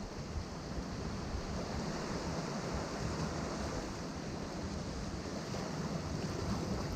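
Atlantic surf washing against rocks, a steady wash of waves with low rumble, with some wind on the microphone.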